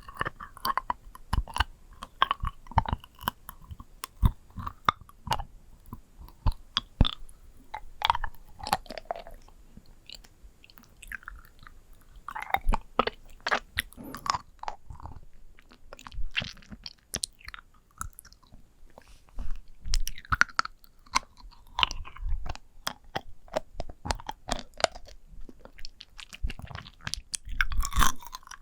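Close-miked ASMR trigger objects being tapped and handled: a dense, irregular run of crisp clicks and crunchy crackles.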